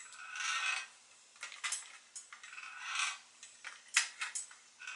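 Hand-operated shrinker-stretcher working the edge of a sheet-steel patch panel, putting a curve into it: a string of sharp metal clicks and short rasping strokes as the jaws grip and move the metal.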